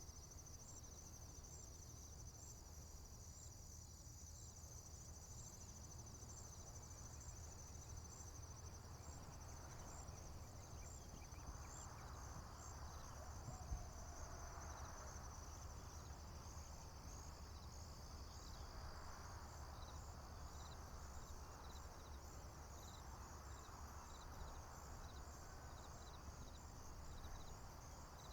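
Crickets chirping steadily in high, pulsing trills over a faint low rumble. A soft wash of noise swells and fades through the middle.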